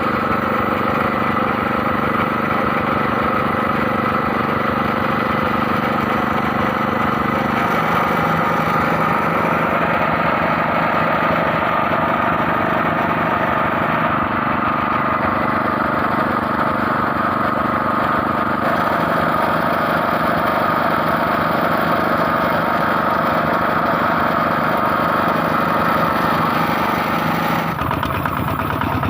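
Small petrol engine of a motorized herbicide sprayer running steadily at working speed. Its note changes and its level dips slightly near the end.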